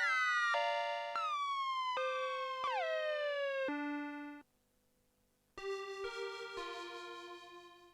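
TSynth, a Teensy 4.1-based polyphonic synthesizer, playing notes and chords on a preset, with several notes sliding down in pitch and a short low note to finish. After about a second of silence, a different preset with a fuller, brighter tone plays sustained notes that slowly fade.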